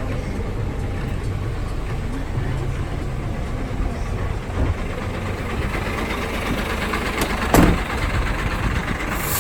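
Diesel engine of a 2017 Hino FM 500 Series tip truck idling steadily, with one brief loud thump about two thirds of the way through.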